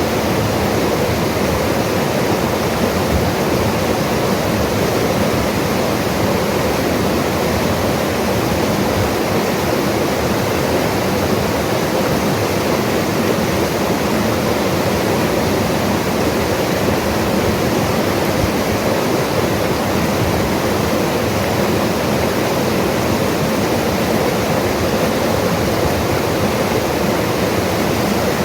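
Mountain river rushing steadily over rocks, a constant dense rush of water with no pauses or changes.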